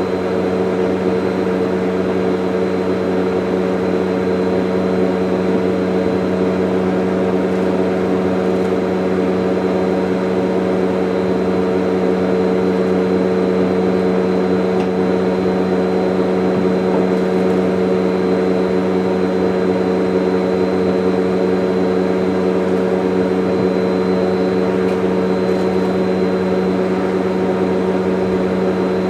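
Vacuum cleaner running steadily, a constant motor hum with no change in pitch.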